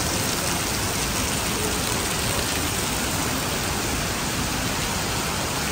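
Heavy rain pouring down on a wet paved city street: a steady, even hiss.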